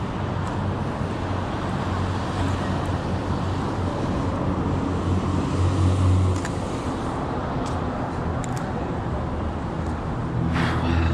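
City street traffic: motor vehicles running past with a steady low engine hum, loudest about six seconds in, and a short sharper sound near the end.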